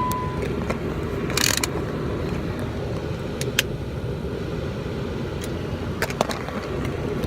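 A car running at a standstill, a steady low rumble inside the cabin, with a short rustle about a second and a half in and a few sharp clicks later on.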